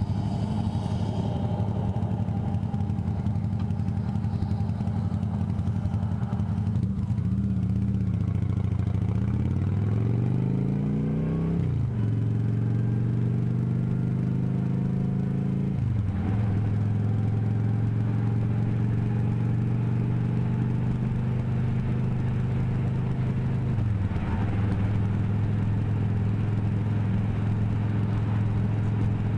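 Motorcycle engine running under way. Its pitch climbs as it accelerates and drops sharply at a gear change about twelve seconds in, with two more brief dips later before it settles back to a steady note.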